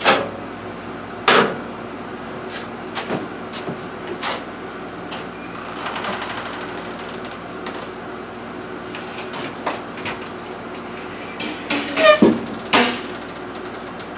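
Scattered knocks and clunks of objects being handled and set down on a workbench, a few sharp ones early on and a cluster of louder clatter with a short falling squeak near the end, over a steady hum.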